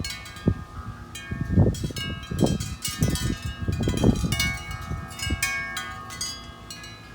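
Wind chimes ringing, many notes struck at irregular moments and ringing on over one another, with a low rumble swelling and fading in the middle.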